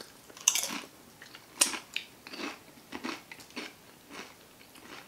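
Close-miked chewing of a Flamin' Hot Cheetos burrito: a string of short crunches, the sharpest about one and a half seconds in.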